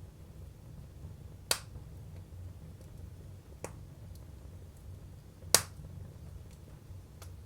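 Firewood burning in a Jøtul F305 cast-iron wood stove: four sharp cracks and pops, the loudest a little past halfway, over a steady low rumble.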